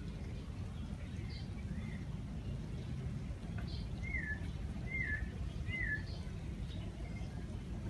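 A bird calling three times, short matching whistled notes about a second apart in the middle of the stretch, with a few fainter calls before them, over a steady low background rumble.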